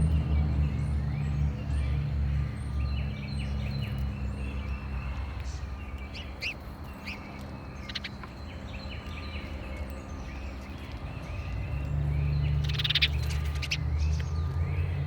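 Small songbirds chirping around a backyard feeder, with a few sharp clicks, over a low rumble that is loudest at the start and swells again about twelve seconds in.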